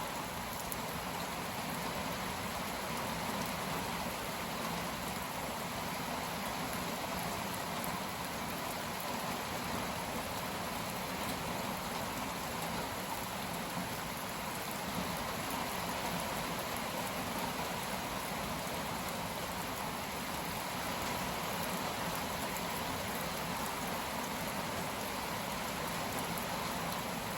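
Heavy rain pouring down in sheets, a steady, even hiss of downpour.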